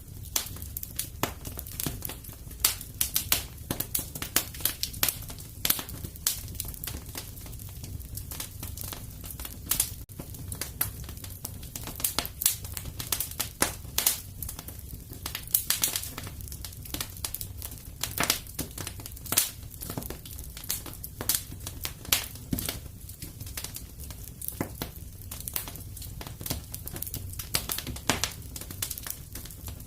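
Wood fire crackling in a fireplace: a continuous stream of irregular sharp pops and snaps over a steady low rumble of the flames.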